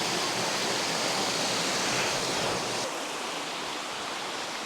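Steady rush of flowing creek water, a little quieter about three seconds in.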